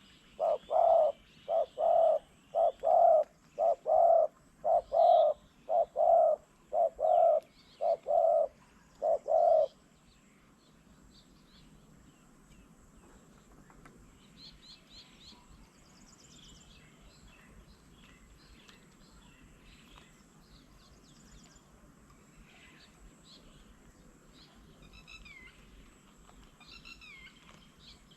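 A bird calls a loud series of short, low hooting notes, about two a second, which stop about ten seconds in. After that come faint high chirps and short descending whistles from smaller birds.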